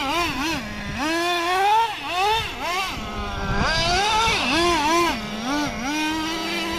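Small nitro RC car engine revving, its high-pitched whine swooping up and down with repeated throttle blips and climbing steadily near the end.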